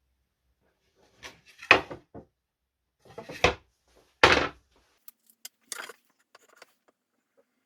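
Wooden knocks and scrapes from wooden cabinet parts being handled: three louder knocks in the first half, then a few light clicks.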